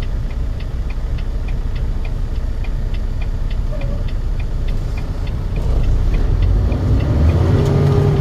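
Semi-truck's turn signal ticking steadily over the low rumble of the cab. About six seconds in the rumble grows louder, with a rising engine tone.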